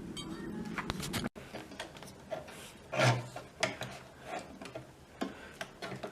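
Workshop hand work on bicycle rack parts: a series of irregular light clicks and knocks, the loudest a dull knock about three seconds in. A steady low hum cuts off abruptly about a second in.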